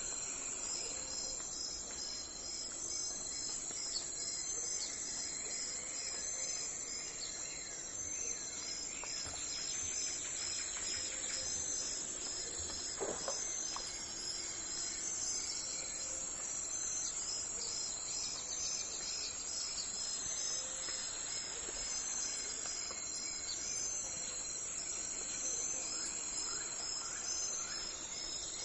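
Steady outdoor chorus of insects, a high pulsing trill that repeats evenly, with a few scattered bird chirps.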